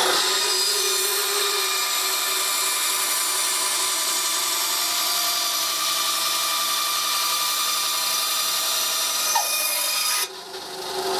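Handheld power tool running steadily on wood, with a constant motor whine over a loud rushing noise, then switched off about a second before the end.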